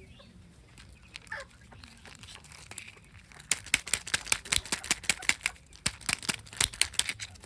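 A wrapper being crinkled and torn open by hand, in a fast run of sharp crackles that starts about halfway through.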